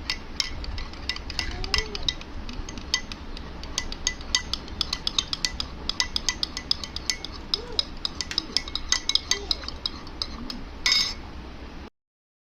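A teaspoon clinking against a coffee cup while stirring: a quick, irregular run of light ringing taps, several a second. A brief louder noise about eleven seconds in, then the sound cuts off.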